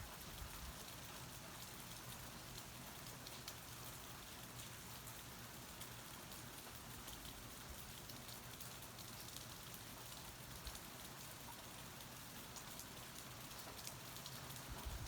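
Steady rain falling, an even hiss with faint individual drop ticks scattered through it.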